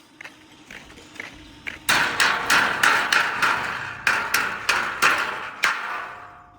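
Hammer striking steel: a few light taps, then, about two seconds in, a run of a dozen or so hard blows at about three a second, each leaving a short metallic ring.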